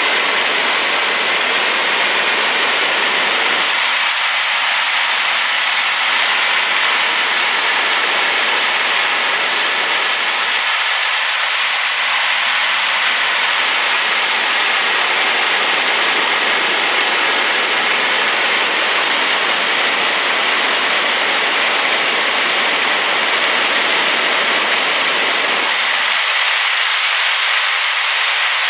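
Waterfall on a rain-swollen river: loud, steady rushing water, mostly a high hiss with little low rumble.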